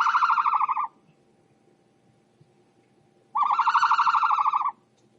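An animal call given twice, each a steady-pitched, rapidly pulsing buzz lasting just over a second: one right at the start and another about three and a half seconds in.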